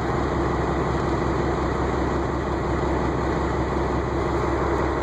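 5.9 Cummins straight-six diesel in a Komatsu pay loader running steadily, cold-started at 20 °F without a block heater or the intake grid heater.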